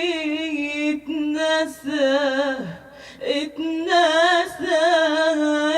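A woman singing alone, drawing out a long ornamented Arabic phrase with a wavering vibrato. She breaks off briefly about three seconds in, then carries on.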